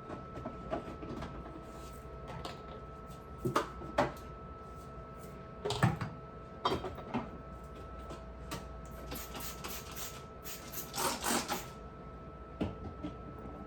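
Scattered knocks and clicks of refrigerator parts and items being handled and set down during cleaning, with a short cluster of rubbing sounds about eleven seconds in, over a faint steady hum.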